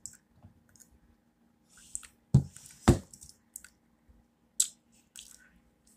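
Close-miked chewing and wet mouth sounds of a person eating, in scattered short clicks, with two louder knocks a little past halfway.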